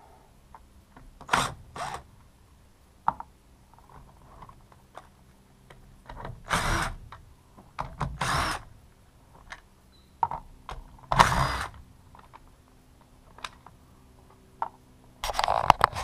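Tools and parts being worked on during the teardown of a Husqvarna T435 top-handle chainsaw: about six short bursts of tool noise, the longest about a second, with small clicks of parts being handled between them.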